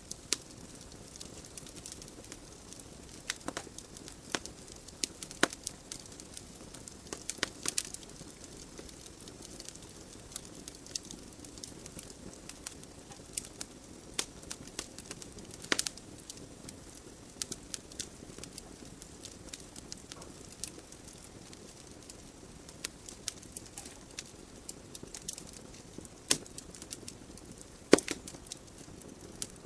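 Wood fire burning in a fireplace: a steady low hiss of flames with irregular sharp crackles and pops from the logs, a few louder pops standing out.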